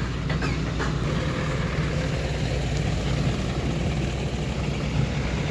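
Six-wheel dump truck's diesel engine running steadily at a low, even rumble.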